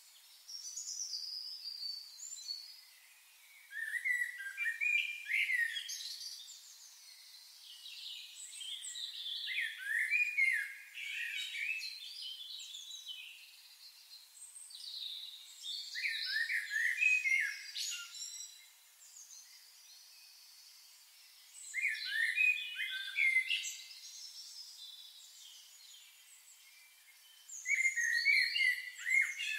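A songbird singing warbled phrases of about two seconds each, repeated roughly every six seconds.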